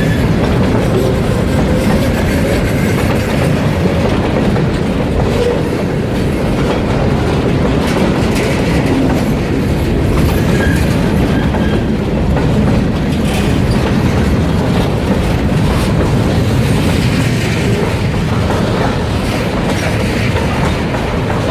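Freight train cars rolling past, loud and steady, with a rumble and the clickety-clack of wheels over rail joints.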